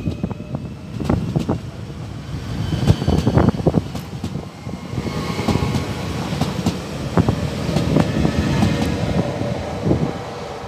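Double-deck Regio 2N electric multiple unit rolling along the platform as it pulls out: a steady rumble with repeated sharp clicks from the wheels over rail joints and points, and a faint high whine from the traction equipment.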